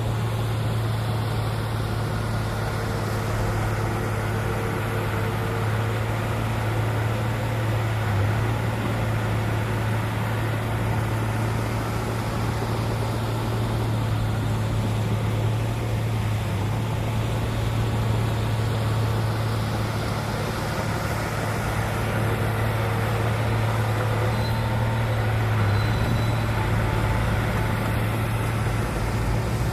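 Heavy diesel machinery engine running steadily, a constant low hum with no sudden changes.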